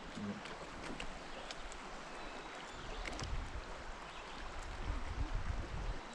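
Water moving and gurgling around a fishing boat as it is moved on the river, with a few faint clicks and knocks.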